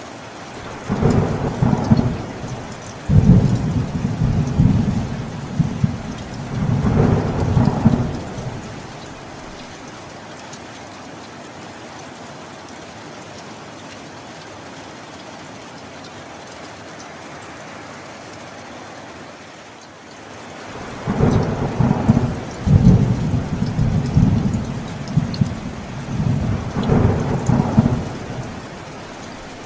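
Steady rain with two long rolls of thunder: the first starts about a second in and rumbles on for about seven seconds, and the second starts about two-thirds of the way through and lasts about as long.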